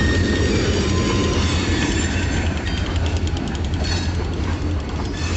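Kiamichi Railroad train rolling past slowly on the tracks, a steady low rumble of wheels on rail. A faint high wheel squeal fades out about half a second in, and light clicking follows in the second half.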